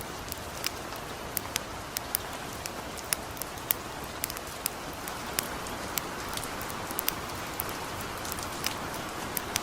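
Steady hiss of light rain mixed with a campfire crackling, with sharp irregular pops a few times a second.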